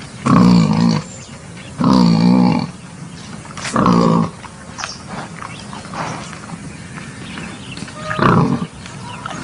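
Wild boar calling: four loud, wavering, pitched calls, each half a second to a second long, with quieter short sounds between them, from a lure-call recording meant to draw wild boar.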